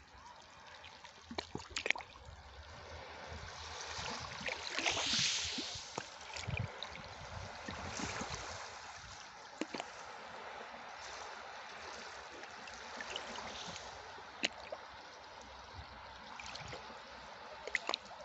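Sea water washing and trickling at the shoreline: a continuous gentle wash that surges louder about four to six seconds in, with scattered sharp splashes.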